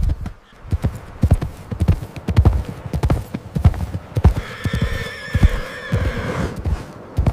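Horse hooves striking the ground in a rapid, uneven clatter, with a horse's whinny rising over them about four seconds in and lasting about two seconds.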